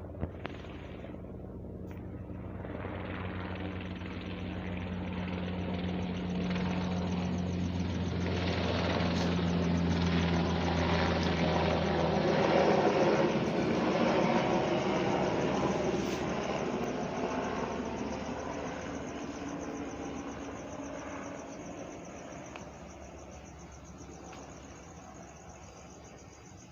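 UH-60M Black Hawk helicopter flying past, its rotor and twin turboshaft engines growing louder, peaking about halfway through and then fading away. A steady low rotor hum drops away near the middle.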